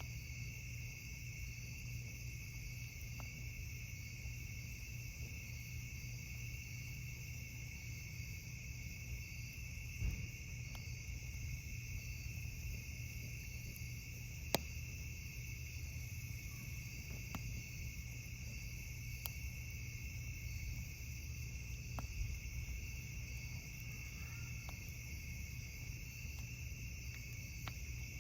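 Steady night chorus of crickets, with a few sharp isolated pops from a wood campfire, the loudest about halfway through.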